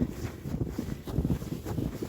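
Footsteps crunching through snow in an uneven rhythm, with wind buffeting the microphone.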